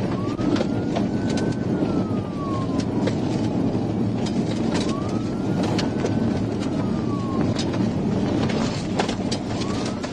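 Police car siren on a slow wail, rising and falling about every five seconds, over the loud steady rumble of the patrol car driving at high speed, with scattered sharp clicks.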